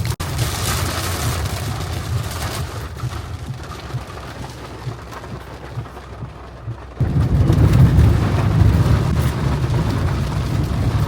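Stormy weather noise of rain and wind, with a sudden deep rumble that starts about seven seconds in and carries on.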